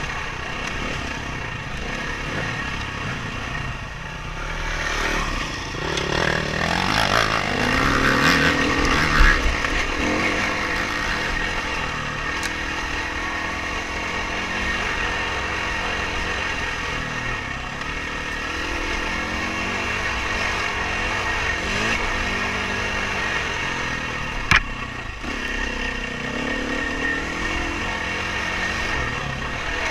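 Dirt bike engine being ridden, its pitch rising and falling as the throttle is worked on and off, loudest around a third of the way in. A single sharp knock comes near the end.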